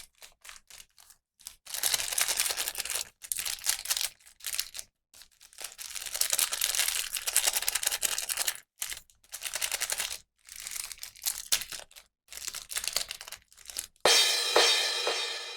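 Plastic packaging crinkling and rustling in irregular bursts of up to about three seconds, after a few clicks at the start. Near the end a toy's music starts playing.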